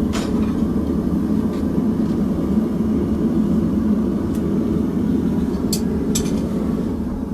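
Steady, loud roar of a blacksmith's forge running, with a few faint light clicks.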